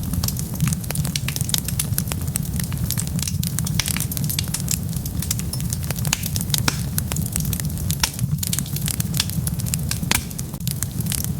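Wood fire burning, with a steady low rumble under many sharp, irregular crackles and pops.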